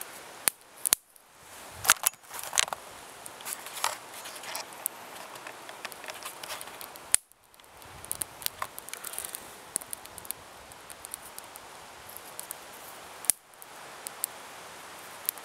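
Irregular sharp crackles and snaps from dry tinder catching in a small, newly lit fire and being handled, over a steady hiss of light rain.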